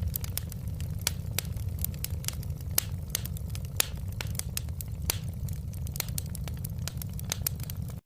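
Wood fire in a fireplace crackling, with irregular sharp pops of varying loudness over a steady low rumble.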